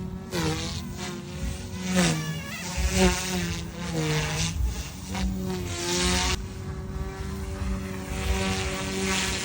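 Goosky S2 Ultra RC helicopter flying: a steady buzzing whine from its motor and rotor. The pitch dips briefly and recovers several times in the first six seconds, then holds steady.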